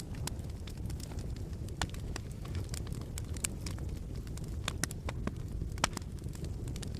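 Wood fire crackling in a fireplace: irregular sharp pops and snaps over a steady low rumble of the flames, a few pops louder than the rest.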